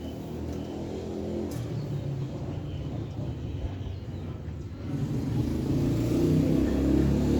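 A motor vehicle's engine running, growing louder about five seconds in.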